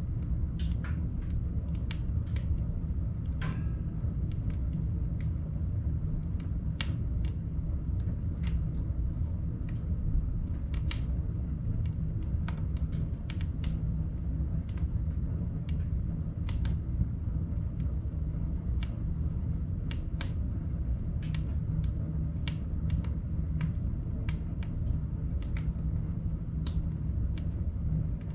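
Wood fire crackling in a wood-burning stove: irregular sharp pops and cracks over a steady low rumble.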